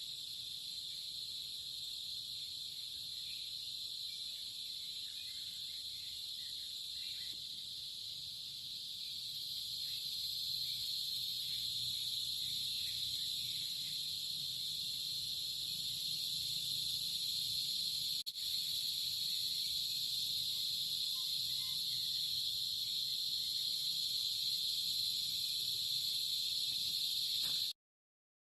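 Insects calling in a steady, high-pitched chorus that grows a little louder about ten seconds in and cuts off suddenly near the end.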